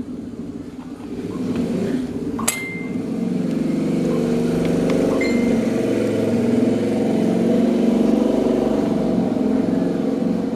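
Electric table fan motor running with a steady hum that builds over the first few seconds and then holds, with a sharp click about two and a half seconds in.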